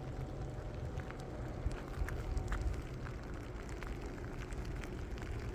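Wind rumbling on the microphone, with scattered light ticks of graupel pellets striking.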